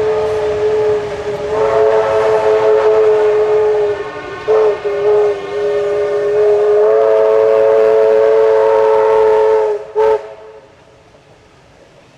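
Locomotive warning signal sounding a chord of several notes: long blasts with a couple of short toots between them about four to five seconds in, then a last short toot. It cuts off about ten seconds in.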